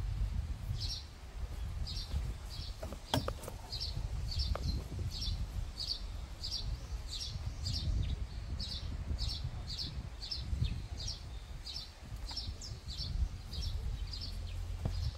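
A bird calling with a short high chirp repeated steadily about twice a second, over a low rumble.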